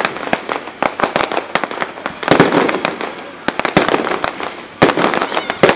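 Fireworks display: a rapid string of sharp bangs and crackles, with heavier clusters of bursts about two seconds in and again near the end.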